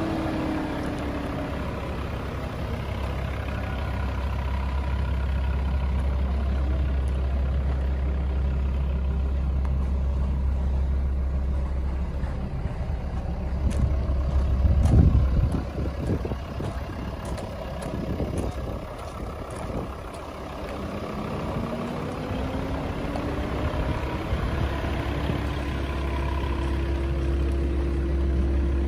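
A motor vehicle's engine running steadily, its pitch dropping near the start and rising again about three quarters of the way through. About halfway in there is a louder burst of knocks and rustling.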